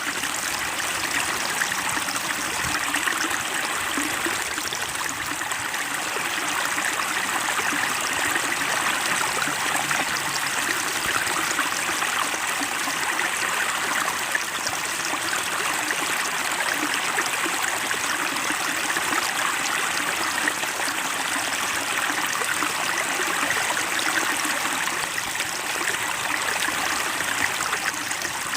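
Running water, a stream flowing and trickling with a steady, even rush and no birdsong.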